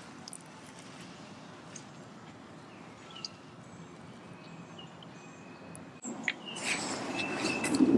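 Outdoor background with birds giving short, high, thin calls now and then; about six seconds in, a louder spell of rustling and sharp clicks sets in.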